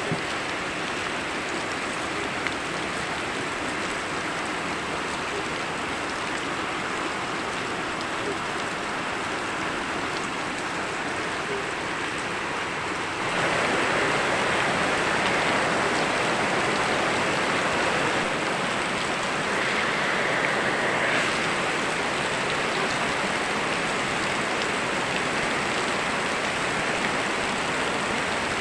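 Steady rain mixed with a flowing river, an even hiss of water. About thirteen seconds in it suddenly turns louder and brighter.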